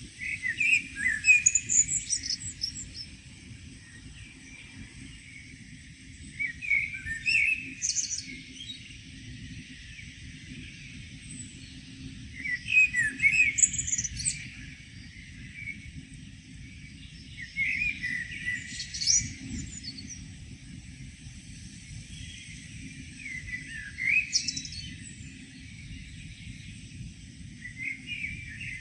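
A songbird singing, repeating a short phrase of chirps and trills about every five to six seconds.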